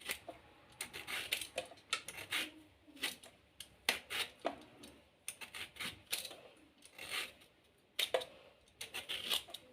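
Small knife cutting the peel from a lemon: a run of irregular short cutting and scraping strokes.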